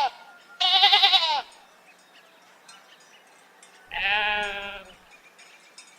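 Sheep bleating: a wavering bleat about half a second in, then a lower, steadier bleat about four seconds in.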